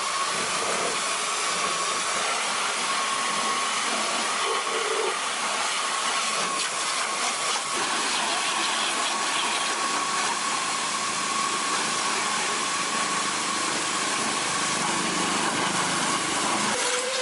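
A motorized tool running steadily: a continuous loud hiss with a steady high whine, cutting off abruptly at the end.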